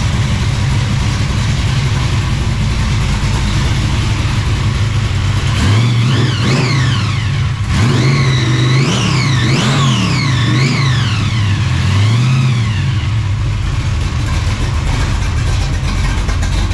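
Supercharged 1968 Chevelle stroked 454 big-block V8, about 500 cubic inches, with a 6-71 blower, idling with a steady deep rumble. About six seconds in it is revved in a string of five or so quick blips at the throttle linkage, then drops back to idle.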